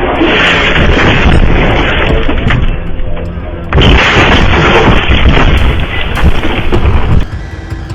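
Loud, rough rumbling and crashing noise from a vehicle collision on dashcam audio, with booms. It jumps louder again about four seconds in and cuts off abruptly near the end, with music underneath.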